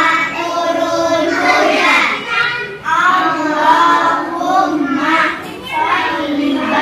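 A child's voice singing a prayer as a sing-song chant, the words running on continuously.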